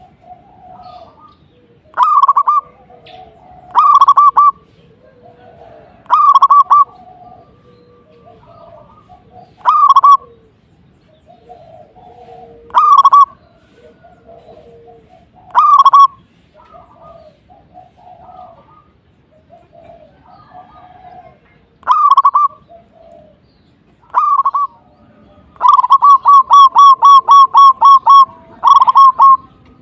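Zebra dove (perkutut) cooing: loud short phrases every two to three seconds, with fainter lower coos between them. Near the end comes a fast run of about ten notes in a row.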